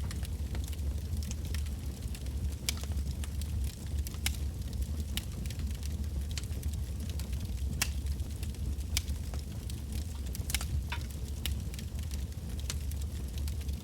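Wood fire burning: irregular sharp crackles and pops from the burning logs, about one a second, over a steady low rumble.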